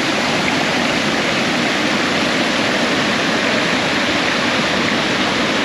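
Waterfall rushing steadily as the creek cascades over granite boulders: a constant, even roar of water.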